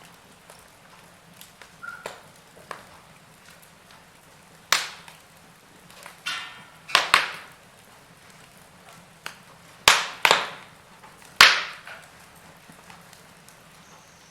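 Wood fire in a fireplace crackling: scattered sharp pops over a faint steady hiss, the loudest several in quick succession through the middle.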